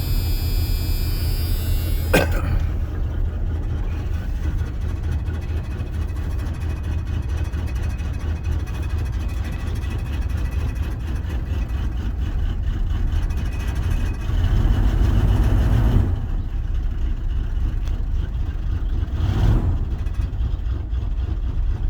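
1984 Ford F-250's 460 cubic-inch (7.5-litre) V8 running on a winter cold start. A sharp click comes about two seconds in, the engine gets louder for a moment about two-thirds through, and there is a short blip near the end.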